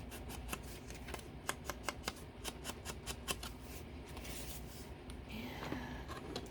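Paper and card being handled at a craft table: a quick run of small sharp clicks and taps, then a softer rustle.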